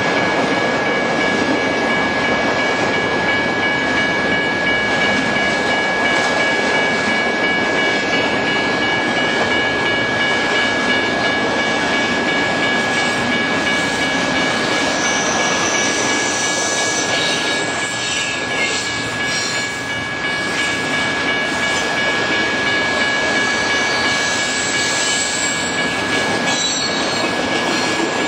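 Double-stack container freight train rolling past a grade crossing: a steady rumble and clatter of the cars. The crossing signal's bell rings as a steady high tone throughout, with a few brief high wheel squeals from about the middle on.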